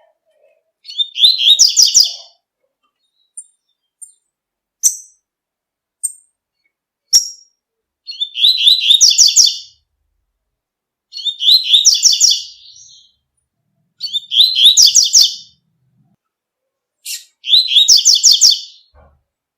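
Double-collared seedeater (coleiro) singing its 'tui-tui' song: five quick trilled phrases a few seconds apart, with single short chirps between them.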